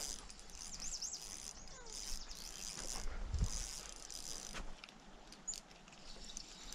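Small birds singing and chirping, with high wavering trills about a second in. A soft low thump comes about three and a half seconds in.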